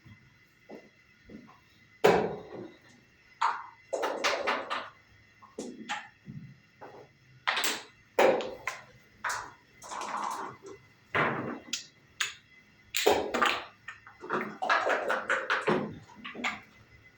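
Backgammon play: checkers and dice clacking on the board, a run of sharp taps with short quick rattles in between.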